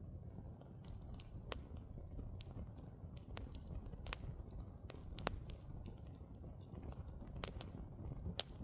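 Wood fire burning, with irregular sharp crackles and pops from the logs over a low, steady rumble of the flames.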